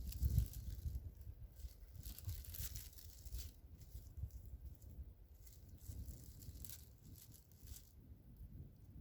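Crescent roll dough being peeled apart and pressed around a hot dog by hand: soft tearing, crinkling and rustling with scattered small crackles over a low rumble that is strongest in the first second.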